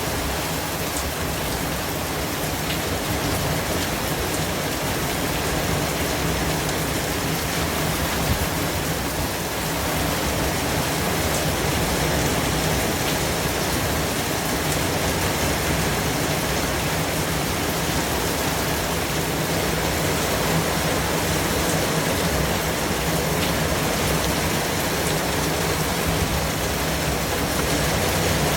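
Steady white-noise hiss with a few faint ticks.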